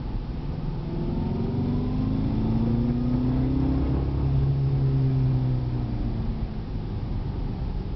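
2011 Cadillac CTS-V coupe's supercharged V8 accelerating on the road: the revs climb for a few seconds, then ease off, over steady road noise.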